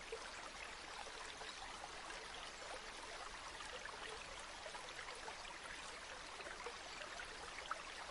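Steady babbling of a flowing stream, an even rush of water with fine trickling detail. A single brief tick stands out near the end.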